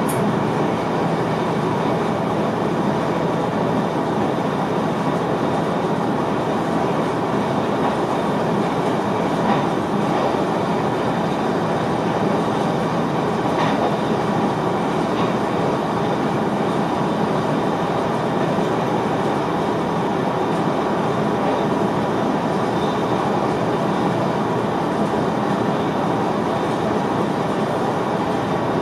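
Steady running noise inside the driver's cab of an NS VIRM double-deck electric train on the move: an even rumble of wheels on rail, with a couple of faint clicks near the middle.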